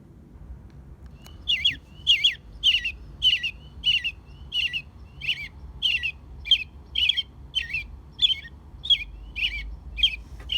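American robin calling: one sharp, downward-sweeping note repeated about twice a second, starting about a second and a half in.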